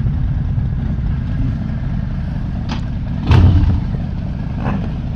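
Several motorcycle engines running steadily at idle, a low rumble, with a brief louder surge a little over three seconds in.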